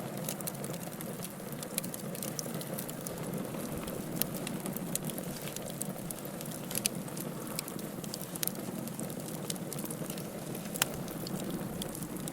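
Wood fire burning with a steady low rush and scattered sharp crackles and pops, one louder pop near the end.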